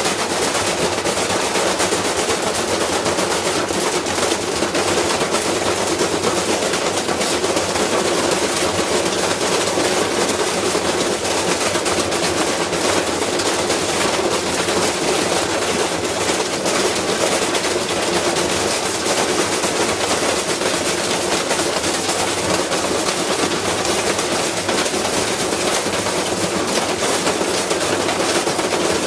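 Washing machine running with a brick inside, the brick hammering against the drum in a rapid, continuous clatter.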